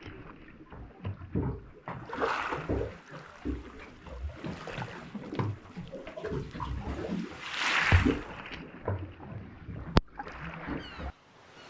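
Water splashing and sloshing in uneven bursts, with low thumps, a louder swell near the eighth second and a single sharp click about ten seconds in.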